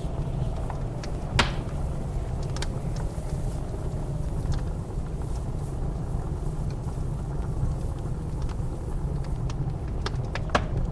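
Blizzard wind making a steady low rumble with a faint wavering whistle, over a wood fire crackling in a fireplace: scattered sharp pops, the loudest about a second and a half in and two more near the end.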